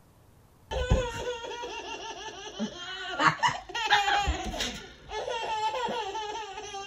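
A baby laughing, high-pitched, in a run of giggles that starts just under a second in, with a short break about five seconds in.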